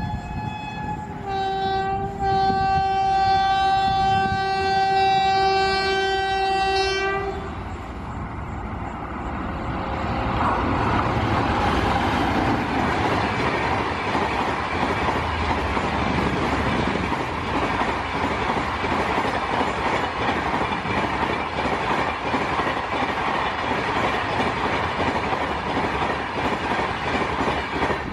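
An Indian Railways electric locomotive's horn sounds one long blast, its pitch dropping about a second in, and stops about seven seconds in. Then a long steady rush of wheels on rails as an express of LHB coaches passes at high speed, about 130 km/h.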